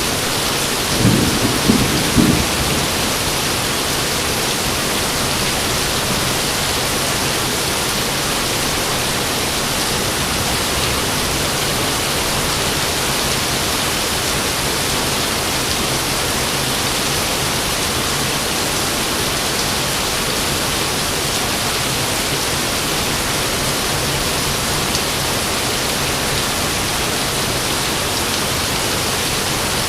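Steady rain falling, with a short burst of thunder about a second in.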